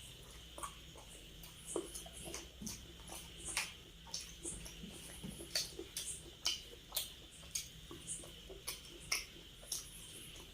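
Close-miked eating sounds: wet chewing and lip smacks, sharp clicks coming irregularly about once or twice a second over a faint steady hiss.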